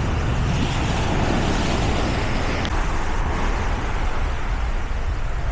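Steady, even outdoor rumble at the seashore, mostly wind buffeting the microphone, with no distinct events.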